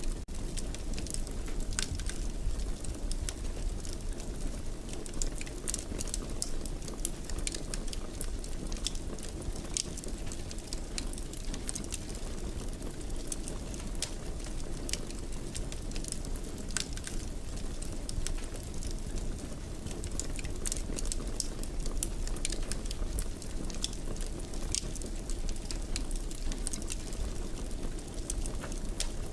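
Wood fire in a fireplace crackling steadily: a low rumble of burning with frequent irregular sharp snaps and pops.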